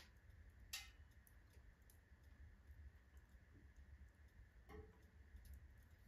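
Faint wood fire of oak and alder logs burning in a stove, giving a few scattered crackles and pops over a low rumble; the sharpest pop comes about a second in.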